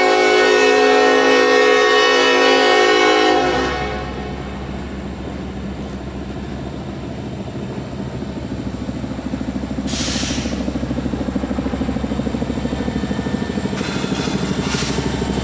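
A diesel freight locomotive's air horn sounds one long chord that cuts off about three and a half seconds in. It is followed by the locomotive's diesel engine running with a fast, even pulse, growing louder.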